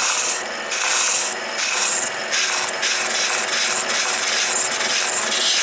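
Turning tool cutting a spinning wooden blank on a wood lathe in repeated short passes, each pass a hiss, over the lathe's steady running hum.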